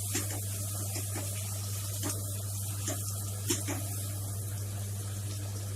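Chopped tomatoes and onions sizzling in hot oil and butter in a kadai, with a steady hiss and a spoon clicking against the pan several times as they are stirred.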